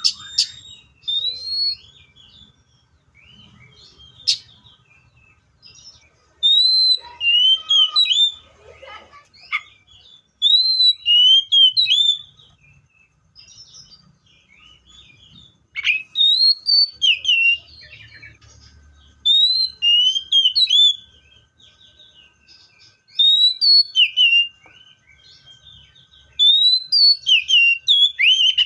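Seychelles magpie-robin singing: short phrases of loud, clear whistled notes that slide up and down, repeated every few seconds with brief pauses between.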